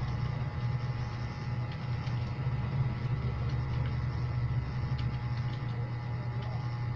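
A few faint, irregular computer keyboard keystrokes over a steady low hum.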